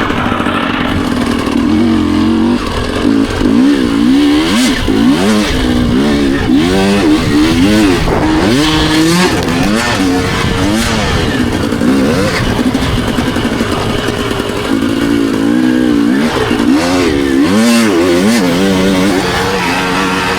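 Dirt bike engine revving hard, its pitch climbing and dropping over and over as the rider opens and shuts the throttle, with steadier stretches near the start and again about three quarters of the way through.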